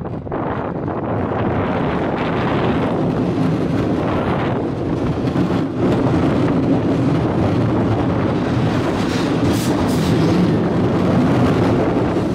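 Roller coaster train running along its track, a steady rumble heard from the front car with wind rushing over the microphone; it gets a little louder about halfway through.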